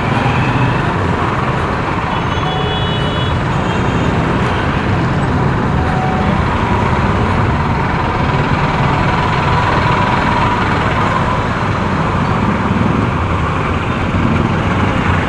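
Steady rush of wind and road noise from riding a motorcycle in traffic, with engine and surrounding vehicles mixed in. A short high tone sounds about two and a half seconds in.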